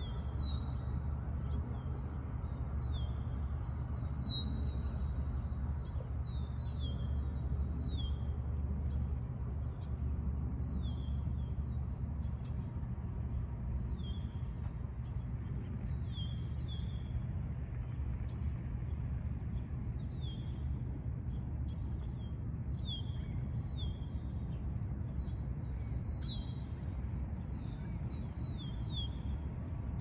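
Small birds chirping repeatedly in short, high, falling notes, several a second, over a steady low hum.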